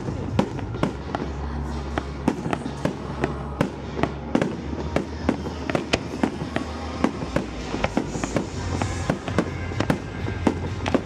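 Fireworks going off in rapid, irregular bangs and cracks, several a second, over music with held low bass notes.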